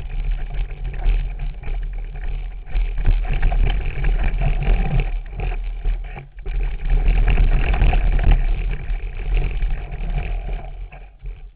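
Rumble of wind on the microphone and the rattle and clatter of a mountain bike riding fast over a rough forest trail. It drops away sharply near the end.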